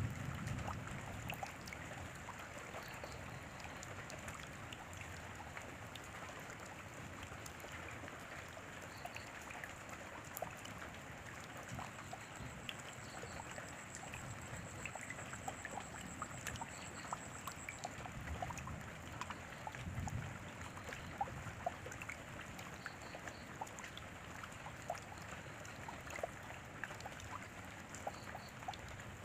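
Steady rain falling, with many individual drops ticking close by over an even hiss. A low rumble swells briefly near the start and again about twenty seconds in.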